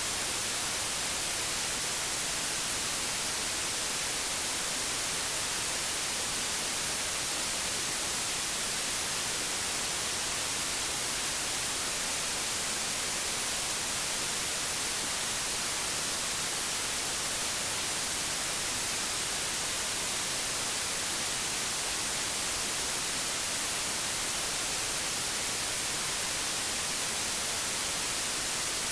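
Old television static: a steady, unbroken hiss, strongest in the high end, with no change in level.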